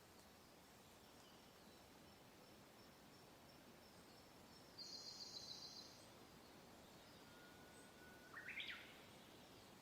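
Faint steady wind with birdsong: a rapid high trill lasting about a second midway, then a short call that climbs in steps near the end.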